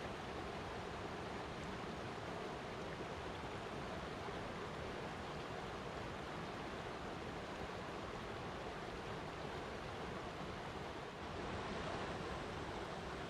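Flowing water, a steady unbroken rushing. It dips briefly about eleven seconds in and then swells a little louder.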